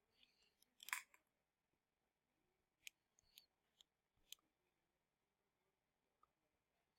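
Near silence with a handful of faint, sharp clicks, the first about a second in and four more spread over the next few seconds: a lighter being flicked to light a candle.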